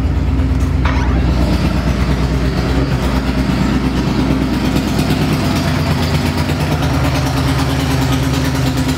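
Victory V-twin motorcycle engine running steadily on a chassis dynamometer. It is muffled behind a door at first and heard plainly once the door opens about a second in.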